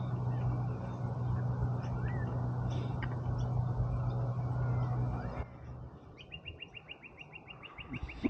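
A steady low motor hum with a few faint bird chirps, cutting off about five seconds in. Then a bird gives a rapid trill of evenly spaced high ticks, about eight a second, running to the end.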